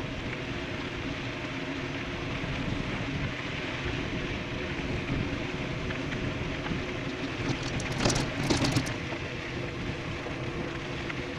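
Steady rush of wind and tyre noise from an e-bike descending at speed, with a short burst of rattling knocks about eight seconds in.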